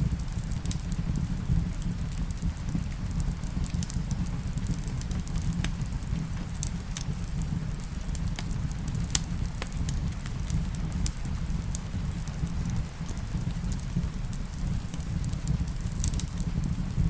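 Wood fire crackling in a fireplace, with sharp pops scattered through, over a steady low rumble and the hiss of rain.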